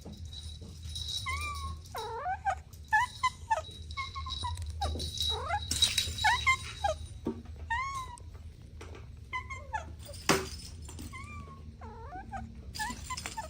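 Kittens mewing over and over in short, high, gliding mews, often several in quick succession. A sharp click comes about ten seconds in.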